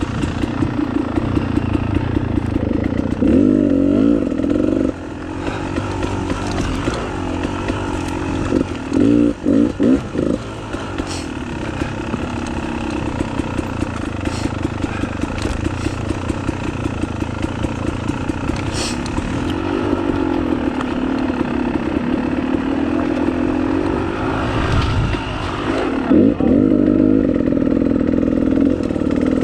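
Trail motorcycle engine running on the move, its pitch rising and falling as the throttle is opened and closed, with several sharper revs. A few short sharp knocks are heard over it.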